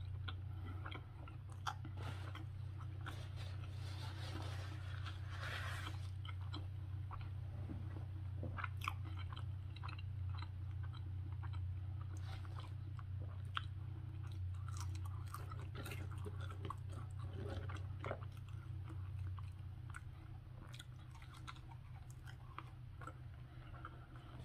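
Close-up chewing of a beef sausage chili dog in a soft bun: irregular wet mouth clicks and smacks, over a steady low hum.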